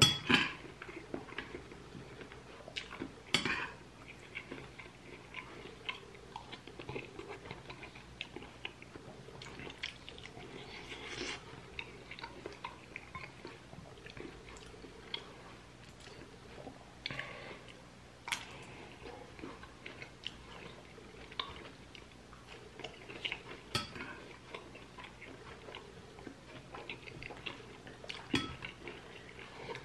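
Close-up chewing and biting of pork rib meat and bean stew, with a loud clink of a spoon against a bowl at the start and scattered softer clicks of spoon and dishes.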